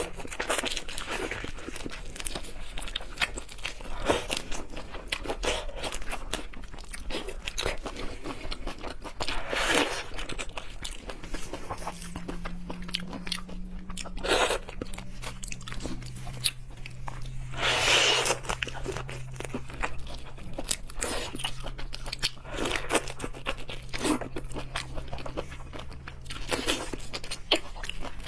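Close-miked eating: crunchy bites and chewing, with a louder bite every few seconds.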